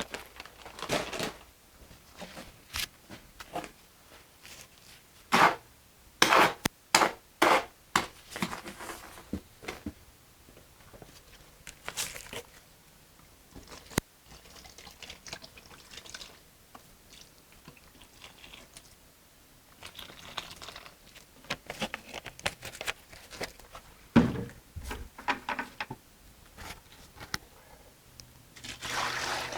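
Garden hoe scraping and chopping through thick, wet mortar in a mixing pan, in irregular strokes with a louder run of them about five to nine seconds in.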